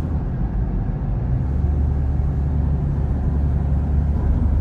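Steady low rumble of a car heard from inside the cabin while driving, engine and road noise, growing slightly stronger about a second and a half in.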